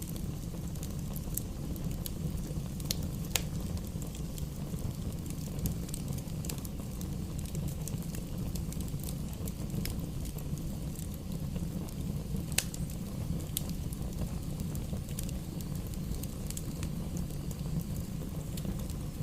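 Bonfire crackling: scattered sharp pops and snaps, irregularly spaced, over a steady low rumble.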